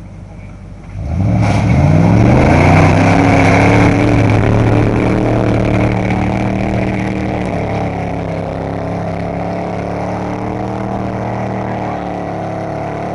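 Pickup truck engine revving hard while mudding: about a second in the revs climb quickly, then hold high and steady, easing off slightly toward the end.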